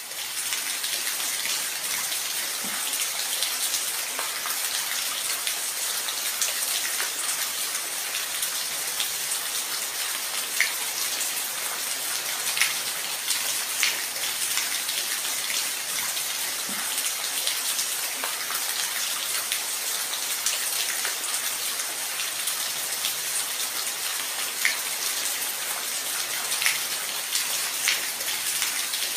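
Steady rain falling, a constant hiss with scattered individual drops ticking sharply on a nearby surface.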